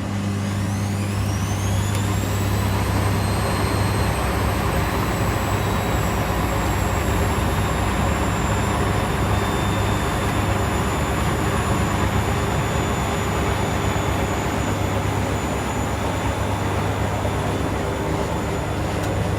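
Washing machine spinning up: the drum motor's whine rises steeply over the first two or three seconds, then holds steady at full spin speed over a constant low hum.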